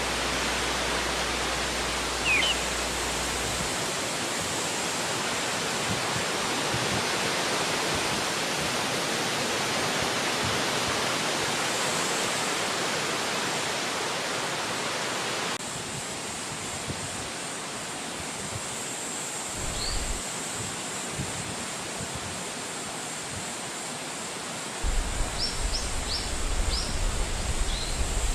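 Wind blowing through forest trees: a steady rushing hiss that eases slightly a little past halfway. A few short high chirps from small birds come through it, most of them near the end. Gusts buffet the microphone with a low rumble around two-thirds of the way in and again near the end.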